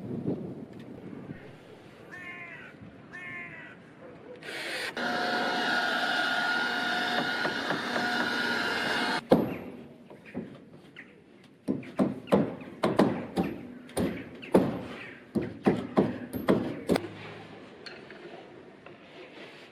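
A machine or power tool runs steadily for about four seconds and cuts off abruptly. A few seconds later comes a run of sharp knocks, about two a second, like hammering.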